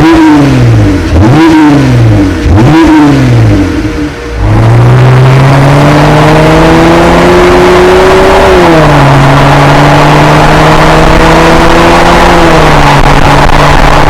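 Jeep Wrangler JL's 3.6L Pentastar V6 through a Borla Touring axle-back exhaust: three quick throttle revs, then a long pull with the pitch climbing slowly. The pitch drops sharply at about the middle and again near the end, like gear changes.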